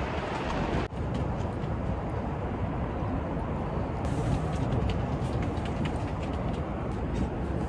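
Strong wind blowing with a steady low rumble, with faint scattered ticks. The sound drops out briefly about a second in.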